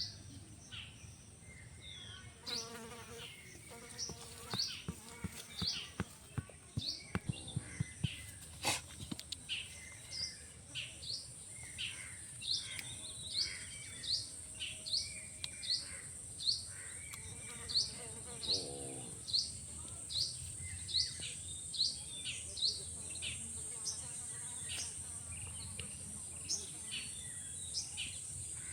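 A bird chirping repeatedly, short high chirps about one and a half a second, over a steady high-pitched insect drone. A few lower calls come in early on and again past the middle, and there is a single sharp click about nine seconds in.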